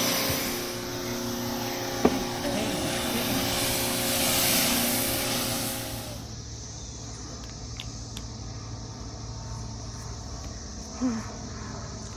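Pressure washer spraying water with a loud, steady hiss that cuts off suddenly about six seconds in, leaving a quieter steady hum.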